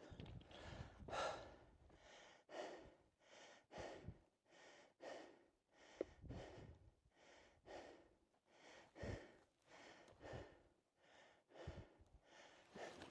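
A man breathing hard and fast, out of breath: a steady run of short, heavy breaths, in and out, a little more than one a second.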